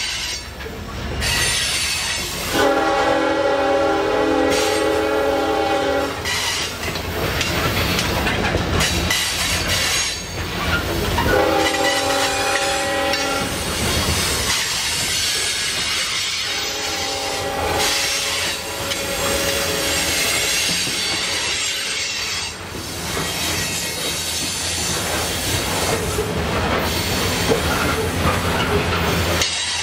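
Locomotive air horn on a Canadian National ore train sounding three blasts: a long one about three seconds in, a shorter one about eleven seconds in, and a fainter one near the middle. Under them runs the steady rumble and clatter of the train moving along the track.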